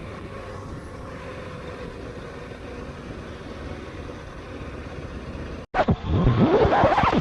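Steady engine and wind noise from a motorcycle at speed. About three-quarters of the way through, after a sudden cut, an Aprilia RSV4 1100 Factory's V4 engine revs loudly in several quick rising sweeps of pitch.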